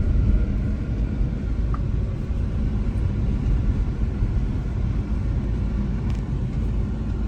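Steady low rumble of a car driving, engine and tyre noise heard from inside the moving vehicle.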